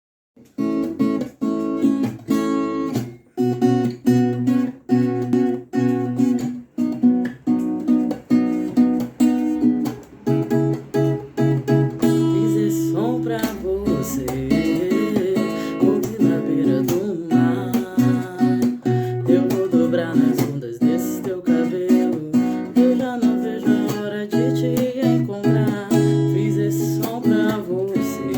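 Acoustic guitar strummed in a steady rhythm as a song's intro, in sharp separate strokes at first and fuller continuous playing from about halfway. From there a wordless vocal melody, hummed or sung without words, rises and falls over the guitar.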